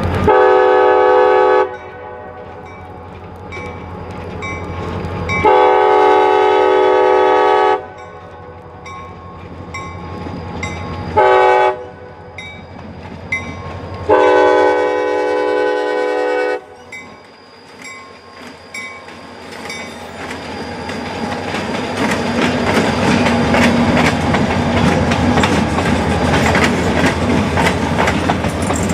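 CSX freight locomotive sounding its multi-chime air horn in the grade-crossing pattern: long, long, short, long, the signal for approaching a road crossing. The train then comes close and passes, its rumble and wheel clatter rising and staying loud.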